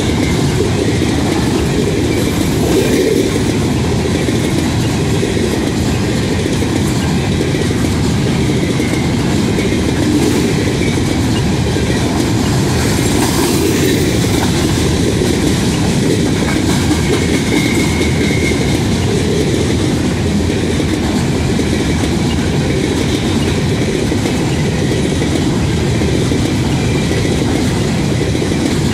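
Covered hopper cars of a CN freight train rolling past close by: steady, loud wheel-on-rail noise.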